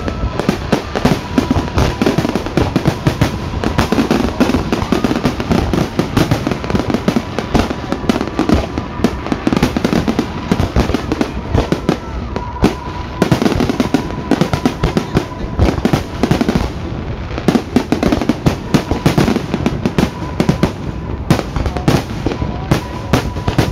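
Fireworks display: a dense, unbroken barrage of bangs and crackling bursts that keeps up at a steady loud level.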